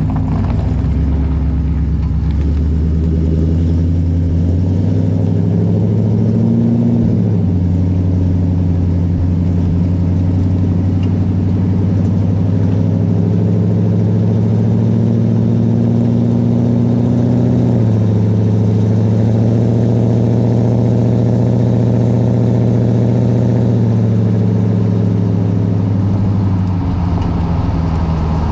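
2018 Chevrolet Silverado's exhaust with equal-length headers, the engine running at a steady drone. The pitch rises about a second in, dips around a quarter of the way through, steps up past the middle and drops back near the end.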